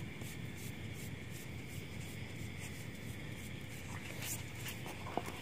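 Steady high insect trill with a pulsing chirp about three times a second. A few soft rustles and taps come near the end as the ground is brushed clear by hand.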